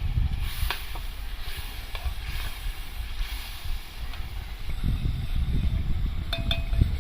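Chopped tomatoes sizzling as they fry in a pan over a campfire, under a steady low rumble, with a few sharp clicks.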